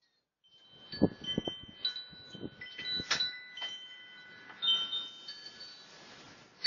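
Wind chimes ringing in gusty wind, several overlapping high notes struck at irregular moments and left to die away, with wind buffeting the microphone in low thumps.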